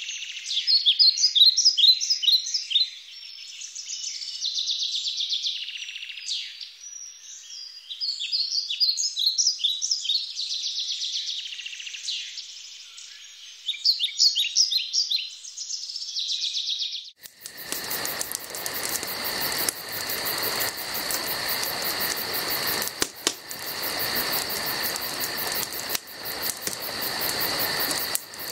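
Songbirds chirping and trilling in a dawn-chorus-like ambience; a little over halfway through it cuts abruptly to a steady chorus of crickets and other insects over a constant hiss, with a fast even pulsing trill.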